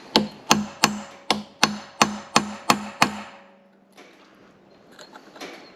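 Hammer striking a mower's steel PTO shaft nine times, about three blows a second, driving it into place; each blow rings with a metallic tone that lingers briefly after the last.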